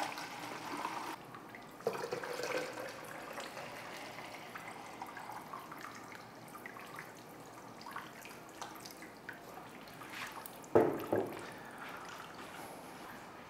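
Water dripping and trickling from the nozzles of a homemade Kelvin water dropper, a drip-fed electrostatic generator. Scattered small ticks run through it, with a knock a little under 2 s in and a louder knock about 11 s in.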